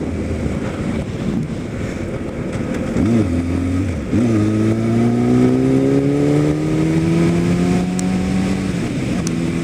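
Kawasaki ZX-10R's inline-four engine while riding: two quick rises and falls in pitch about three and four seconds in, then a long, steady climb in pitch as the bike accelerates, dropping back down near the end.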